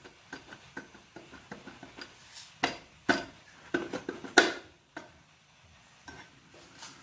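Metal tools and engine parts clinking and knocking against each other as they are handled: a run of light clicks, then a cluster of loud, sharp metallic clanks about halfway through, and a few lighter clicks after.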